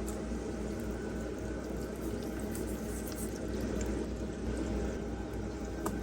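Steady bubbling and trickling of water, with a small click near the end.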